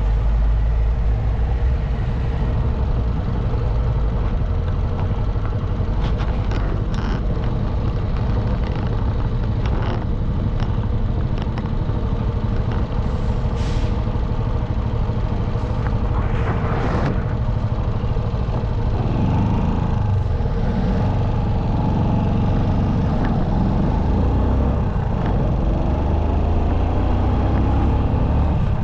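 Motorcycle on the road, heard from the rider's position: steady engine, tyre and wind noise, with a few short hisses, the clearest about sixteen to seventeen seconds in.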